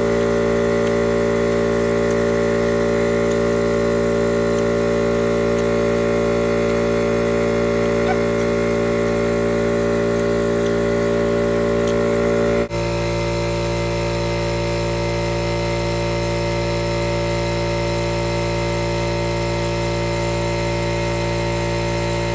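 Air compressor running steadily while powering a paint spray gun: a constant mechanical hum with several fixed tones. About halfway through it breaks off for an instant and comes back slightly quieter with a changed tone.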